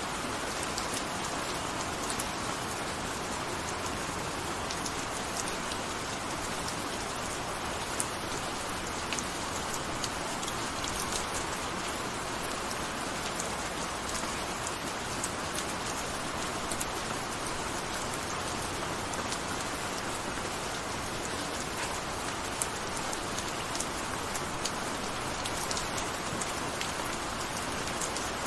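Steady gentle rain falling, an even hiss with many small individual drop ticks throughout.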